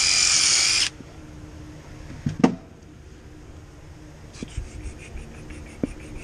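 A power drill/driver whines and stops abruptly about a second in, followed by a sharp knock and light tool handling with quick ticking near the end.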